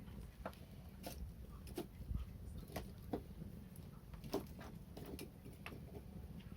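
Wood fire crackling: irregular sharp pops, one or two a second, over a low steady rumble.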